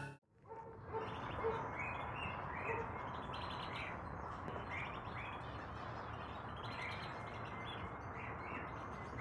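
Small birds chirping over a steady hiss of outdoor background noise. The chirps are short and repeated, about two a second.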